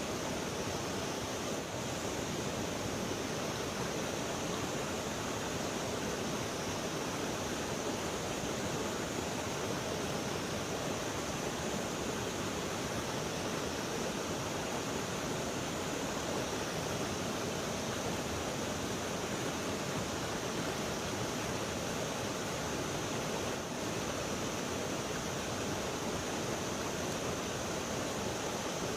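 Steady rush of flowing river water, with a high hiss above it that swells and fades slowly.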